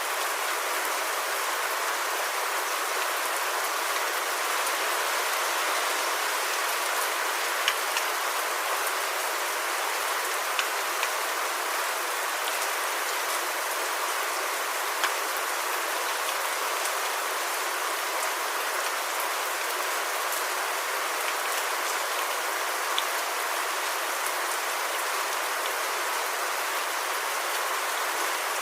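Steady, even hiss like falling rain, with a few faint ticks scattered through it.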